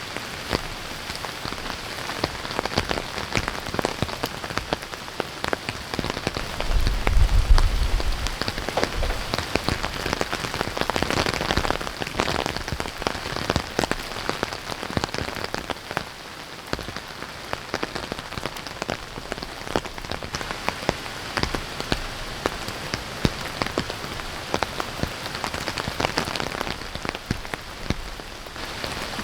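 Heavy rain falling, with many drops pattering on a surface close by. A brief low rumble comes through about seven seconds in.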